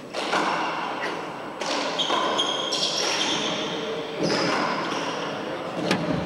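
Handball rally in a four-wall court: the rubber ball smacks off the walls and players' hands about six times, with sneakers squeaking on the floor in the middle of the rally.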